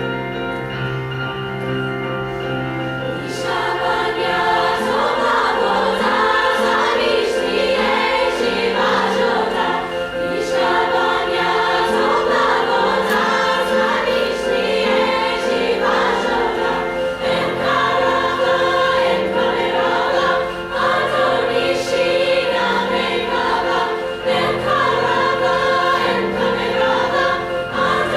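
Women's choir singing with piano accompaniment; the piano plays alone at first and the voices come in about three seconds in.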